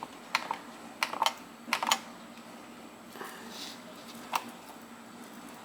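Sharp plastic clicks of thermostat buttons being pressed, several in the first two seconds and one more about four seconds in.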